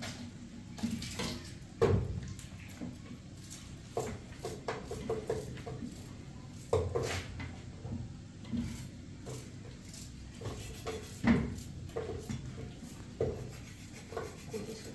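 Scattered short knocks and clinks of objects being handled, about a dozen spread unevenly, over a low steady background.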